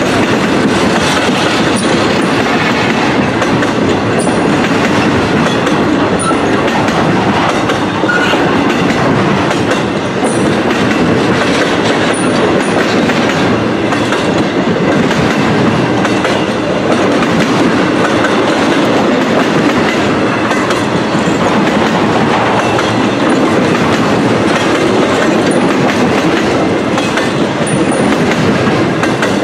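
Railroad cars of a passing train rolling by, a steady clatter of steel wheels on the rails that keeps up without a break.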